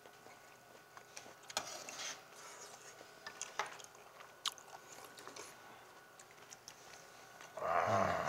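A man eating stew from a spoon, close to a clip-on mic: chewing and small mouth noises with light clicks of the spoon against the bowl. Near the end comes a short burst of voice, the loudest sound.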